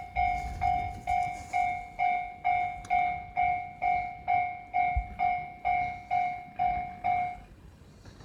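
Electronic railway warning bell ringing about twice a second, each stroke decaying, then stopping about seven seconds in. Under it runs the low rumble of a passing train.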